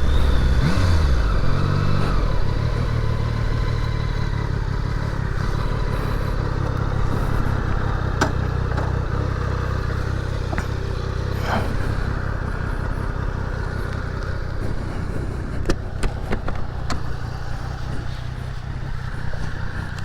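Triumph Daytona 660 motorcycle's three-cylinder engine running steadily under the rider, its pitch shifting in the first couple of seconds, then slowly growing quieter. A few sharp clicks are heard over it.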